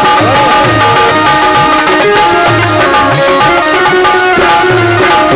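Instrumental Indian folk music: a hand drum beats a steady rhythm with bass strokes that slide in pitch, under held melody notes and regular jingling percussion.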